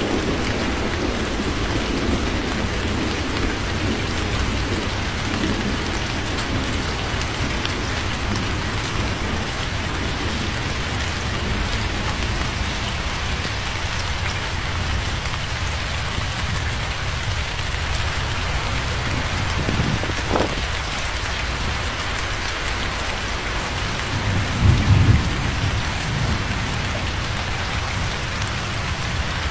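Steady heavy rain pouring onto a surface, with low thunder rumbling in the background. A louder, short roll of thunder comes near the end.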